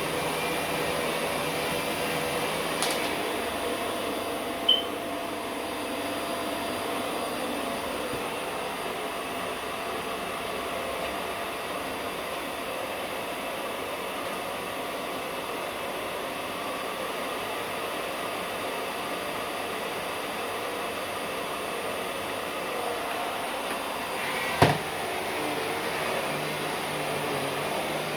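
Vacuum cleaner running steadily as the floor is hoovered. There is a brief click near the start and a sharp knock near the end.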